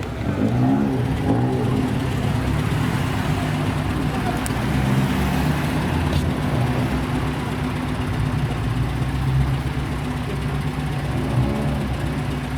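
Car engine running loudly with a steady low note that wavers slightly in pitch; it gets louder right at the start.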